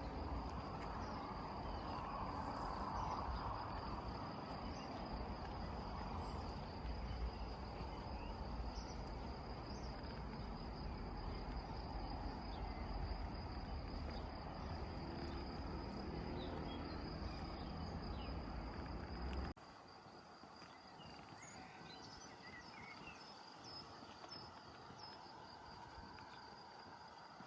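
Crickets trilling steadily in a high, continuous tone over a low rumbling background noise, which drops away suddenly about two-thirds of the way through, leaving the trill.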